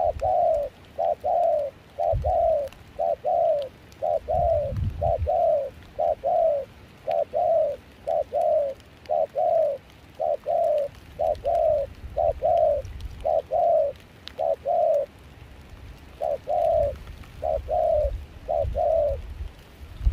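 Spotted dove cooing over and over, short falling coo notes mostly in pairs, with a brief pause about three quarters of the way through.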